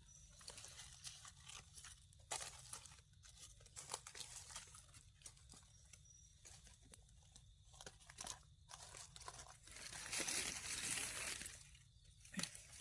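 Dry leaf litter and twigs crackling and rustling in scattered crunches, with a longer rustle about ten seconds in.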